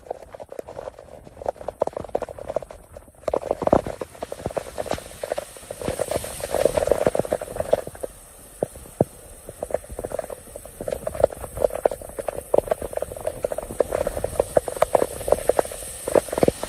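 Hailstones and rain striking a hard surface: a dense, irregular clatter of separate impacts.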